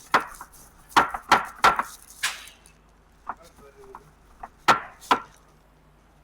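A series of sharp knocks and taps, as of hand tools striking parts of the transmission: a cluster of four or five in the first two and a half seconds, a single knock a little past three seconds in, and two close together near the end.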